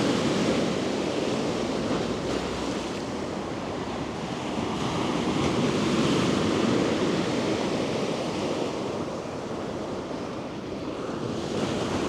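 Sea waves washing onto the shore, a steady surf that swells and eases, with some wind on the microphone.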